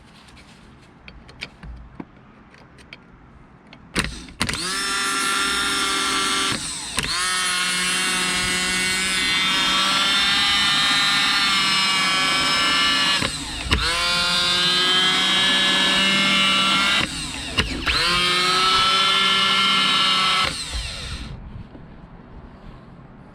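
Denso 12 V starter motor from a Peugeot 407 2.0 HDi, run off the car on jumper leads and spinning freely. After a few small clicks as the leads touch, it runs four times in about sixteen seconds, each time with a whine that rises in pitch as it spins up, then winds down near the end. Freshly cleaned and greased, it is working.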